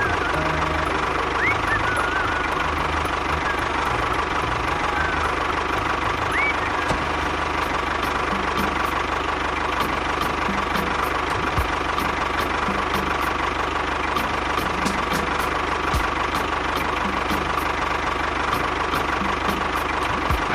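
An engine or motor running steadily at an even level.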